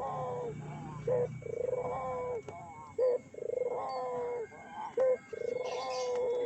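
Puter (Barbary dove) cooing in a steady repeated rhythm. Each phrase is a short, sharp note followed by a long rolling coo, and a new phrase starts about every two seconds.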